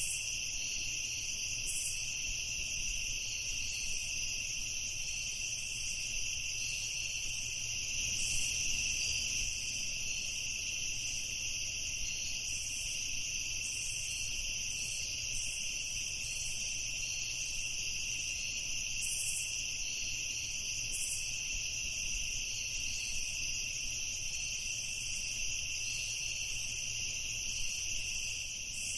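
Night insect chorus: crickets trilling in a steady, unbroken high drone, with a few brief higher chirps now and then.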